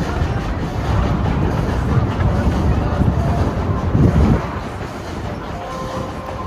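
Passenger train in motion, heard from aboard: a steady rumble of wheels on the track, a little louder for the first four seconds or so.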